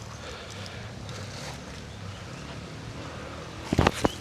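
Steady low outdoor background noise, then a quick cluster of loud thumps near the end.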